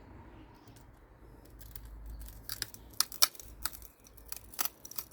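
Hands and pliers working a corroded bulb holder out of a car tail-light: a low rumble, then a run of about a dozen sharp clicks and cracks of plastic and metal from about two and a half seconds in.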